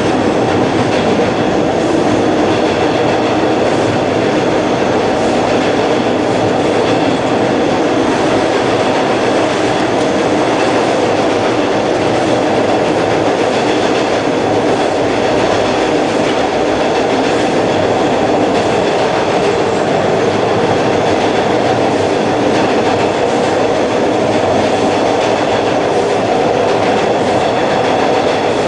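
Hawker Siddeley H4 subway car running at steady speed, heard from inside the car: a loud, even rumble of wheels on rail and running gear, with a faint high whine above it.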